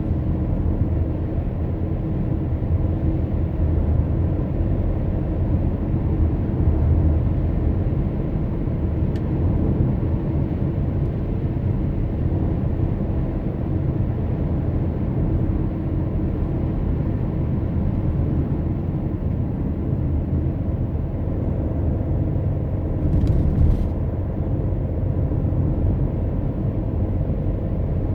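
Car driving along a road: a steady low engine and road rumble, with a brief sharper sound about 23 seconds in.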